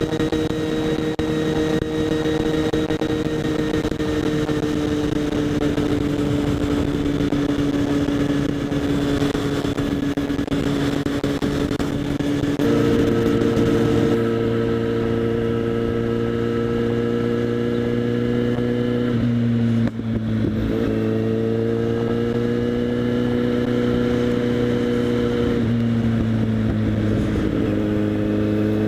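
Kawasaki Z800's inline-four engine running through a LeoVince SBK aftermarket exhaust under way, a steady engine note. The pitch sinks slowly at first, then shifts suddenly about halfway through and again about two-thirds through, and climbs gently near the end.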